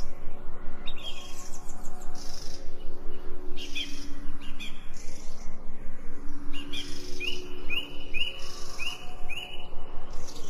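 Birds chirping and calling, with a run of about five quick rising chirps in the second half, over a steady low drone.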